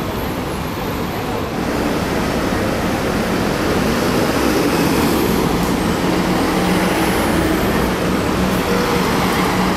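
Scania double-decker bus running with engine note and road noise; the sound grows louder about a second and a half in, then holds steady with a constant engine hum.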